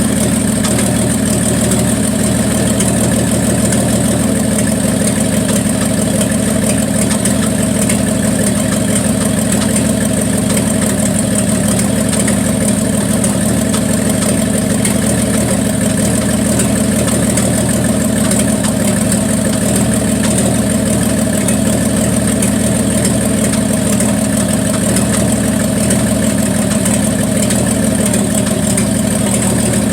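1974 Plymouth Duster's slant-six engine idling steadily after a cold start, with a miss that the owner puts down to valve lash set too tight.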